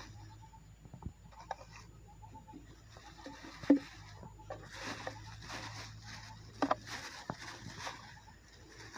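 Footsteps and the rustle of a handheld garbage bag as someone walks, with irregular scraping rustles and a few sharp knocks, the loudest about halfway through.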